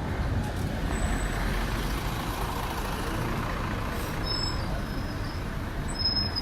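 Steady urban road traffic noise with the low rumble of heavy vehicles running.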